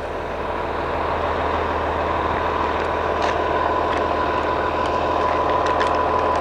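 Cummins ISC diesel engine of a Blue Bird All American bus idling steadily, with a steady whine over the low hum that grows slightly louder.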